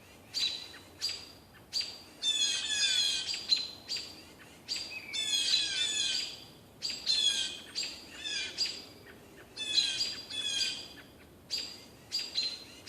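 Birds chirping and twittering: high, quick phrases one after another, broken by short pauses.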